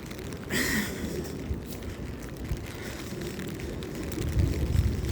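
Strong wind buffeting the microphone, a constant low rumble that gusts louder near the end, with a brief hissing rush about half a second in.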